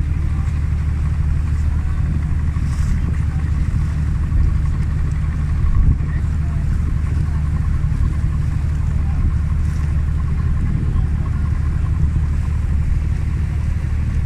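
Tour boat's engine running steadily under way, a constant low drone with water and wind noise over it.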